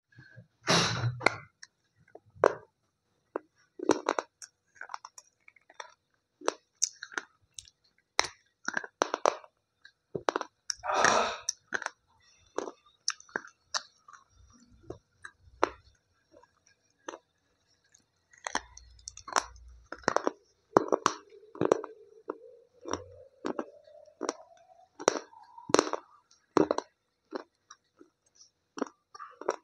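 White slate pencils being bitten and chewed close to the microphone: sharp, irregular crunches and cracks between stretches of gritty chewing.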